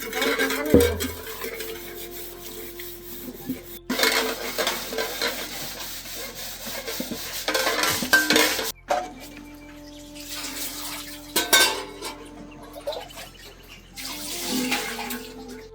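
Metal utensils clinking and scraping against pots and dishes while food is stirred and served. It comes in a few separate stretches, with abrupt breaks about four and nine seconds in.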